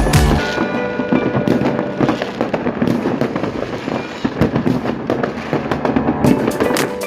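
Fireworks going off: many crackles and bangs in quick succession, with music playing underneath.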